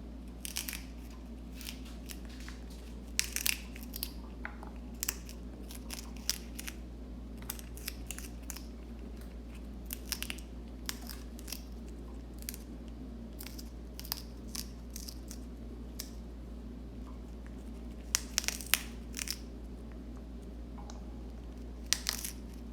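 African grey parrot biting and tearing at a raw red cabbage leaf: irregular crispy crunches and snaps, some in quick clusters, over a steady low hum.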